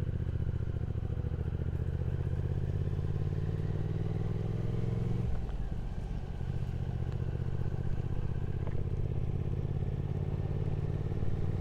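Triumph Speed Twin 1200 parallel-twin engine running steadily on the road, with a brief drop in the engine note about five seconds in before it settles back to the same steady note.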